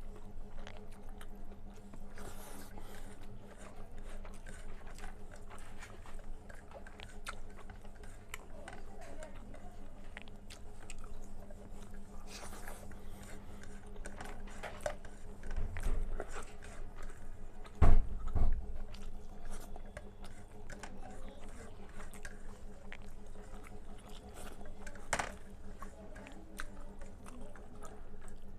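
A person chewing and eating a meal of rice with red amaranth greens and potato curry, with many small wet mouth clicks. Two low thumps come about 16 and 18 seconds in, the second the loudest, over a faint steady hum.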